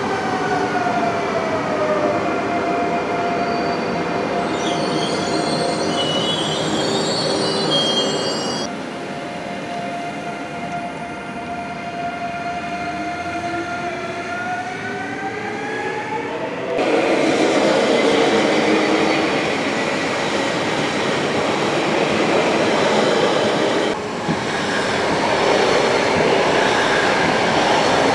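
Double-deck electric TER train moving slowly past, its traction motors whining in tones that fall, hold and then rise as the speed changes. A high squeal from the wheels comes about five to nine seconds in. In the second half a louder, rougher rolling noise takes over.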